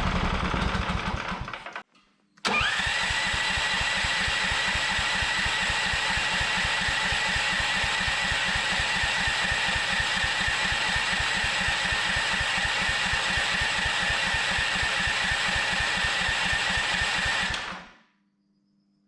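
A 420cc small engine runs out of fuel and dies away with falling speed. After a brief pause its electric starter cranks it for about fifteen seconds with a rapid, even beat and a steady whine, but the engine does not catch for lack of fuel. The cranking then cuts off suddenly as the control unit disengages the starter after its set time.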